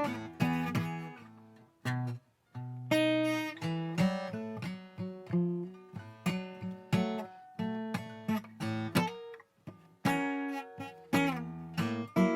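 Solo acoustic guitar playing a slow blues in B, plucked single notes and strummed chords that ring out and decay, with two short pauses between phrases.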